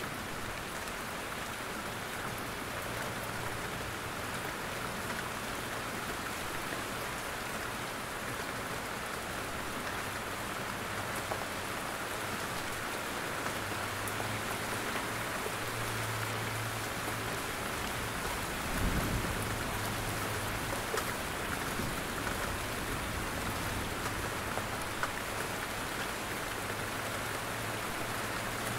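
Steady rain in a forest, with scattered drops ticking as they fall from the trees. About two-thirds of the way through there is a short low rumble, the loudest moment.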